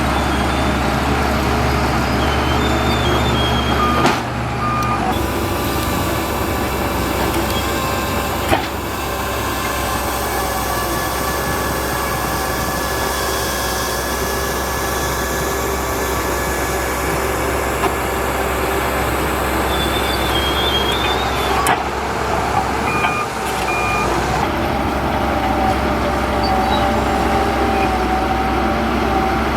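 Heavy diesel earthmoving machinery running steadily, with short high beeps now and then and a few sharp knocks.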